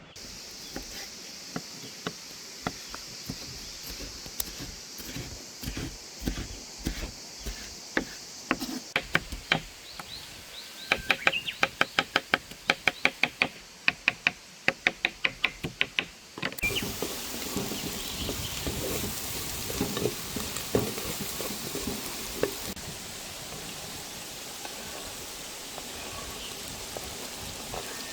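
A run of sharp knocks, at first scattered, then quickening to a steady three or four a second about halfway through; then, after an abrupt change, steady sizzling and crackling of food cooking over a fire.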